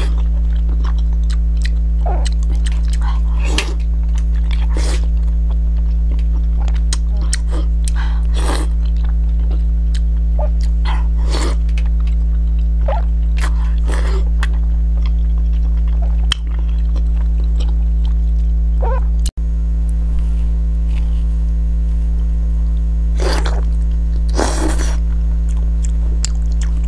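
Close-up eating sounds: wet bites and chewing of soft braised pork belly eaten with chopsticks, coming in short irregular bursts. They sit over a loud, steady low hum that drops out briefly twice, about 16 and 19 seconds in.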